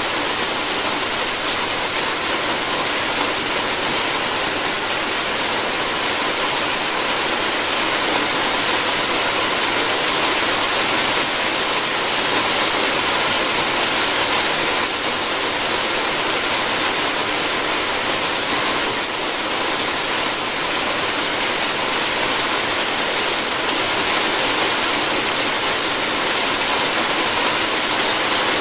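Steady rain falling on a roof: a dense, even hiss of drops that holds unchanged throughout.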